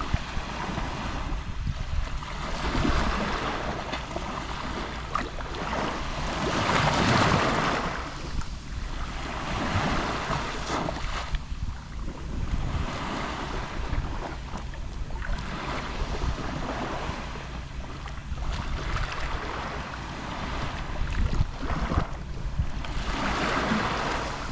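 Small Mediterranean waves lapping on the shore, each wash swelling and falling back every couple of seconds, the biggest about seven seconds in and another near the end.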